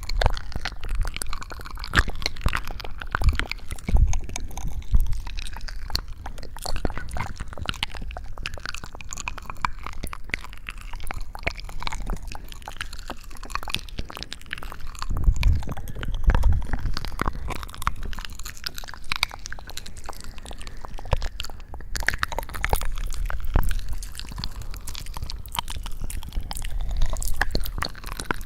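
Close-miked ASMR sounds: a dense, steady run of wet, sticky clicks and crackles with occasional low thumps.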